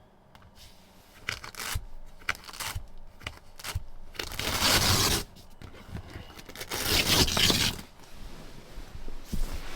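Rustling, clicks and scraping from someone moving about and handling things, with two longer tearing scrapes about four and seven seconds in that are the loudest sounds.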